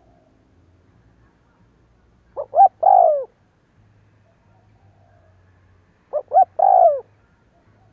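Spotted dove cooing, two calls about four seconds apart. Each call is two short coos and a longer, falling coo. It is the kind of call used to rouse wild doves to a decoy.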